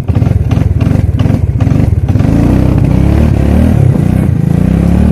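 Suzuki King Quad ATV engine pulling hard uphill in first gear, low range, four-wheel drive through snow: choppy and uneven at first, then revving up about two seconds in, its pitch rising and falling with the throttle.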